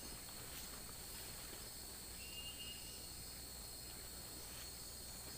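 Tropical rainforest insect chorus: a steady, high-pitched drone of many insects, with one short high whistle about two seconds in.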